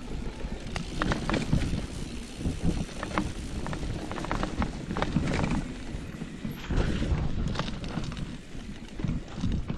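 Irregular footsteps on a hiking trail, with wind rumbling on the microphone.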